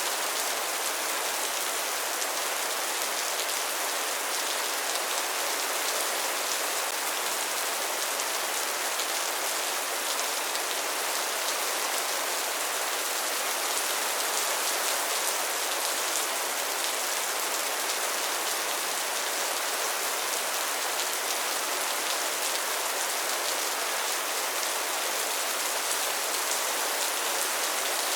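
Rain falling steadily: an even, high hiss of many drops that does not swell or fade, with no thunder.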